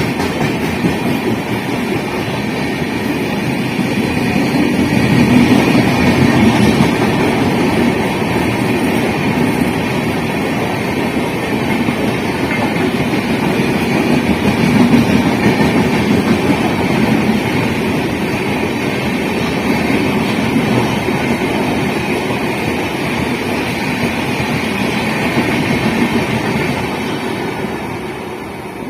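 A train rolling along the track, a steady rumble of wagon wheels on the rails that swells twice and fades away near the end.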